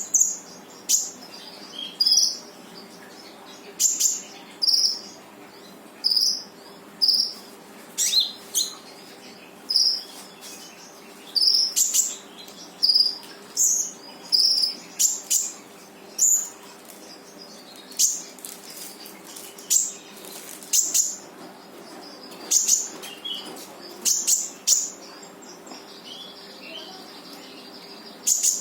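Konin songbird singing loudly in short, sharp, high call notes, one after another about every second or less, the rapid 'tembakan' style of a bird in full song. A faint steady hum and insect sound lie underneath.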